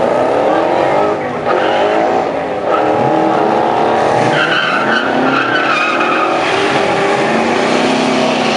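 Drag cars' engines at full throttle, launching and accelerating down the drag strip, the pitch climbing and dropping back at each gear change.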